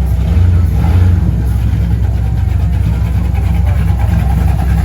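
Car engine running close by with a deep, steady rumble. It swells briefly about half a second in.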